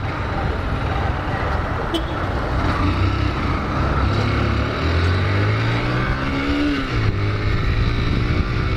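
Honda CG 160 Fan's single-cylinder engine accelerating, its pitch rising, dropping sharply about seven seconds in at a gear change, then rising again, over road and wind noise.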